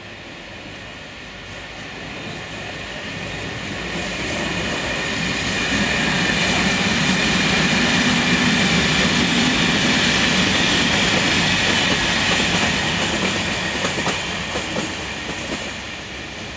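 Passenger train passing close at speed, growing louder to a peak around the middle and then fading as it moves away. Wheels click over the rail joints under a steady high whine, with a few sharper clicks near the end.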